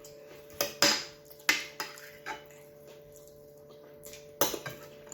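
Cutlery clinking against a plate during a meal: about six sharp clinks, the loudest about a second in and again near the end.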